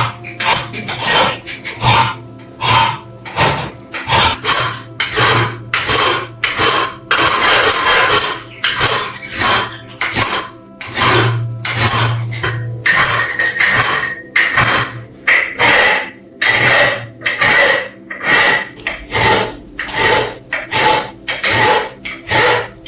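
Steady back-and-forth abrasive hand strokes on a rusted metal lamp body, rasping about twice a second.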